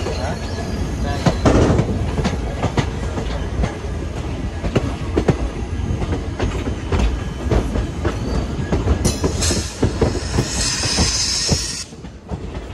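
Passenger train running along the track, heard from an open coach door: a steady rumble with irregular clicks of the wheels over rail joints and points. About nine seconds in, a high wheel squeal sets in and stops about three seconds later.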